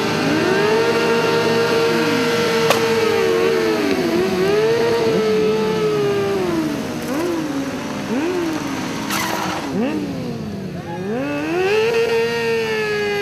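Motorcycle engines revved hard over and over, each time climbing in pitch, holding high, then dropping away.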